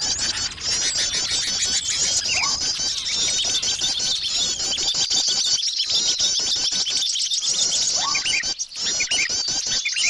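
Dense, unbroken high-pitched chirping and twittering of many small birds, a bird-luring (pikat) call recording used to draw small birds in.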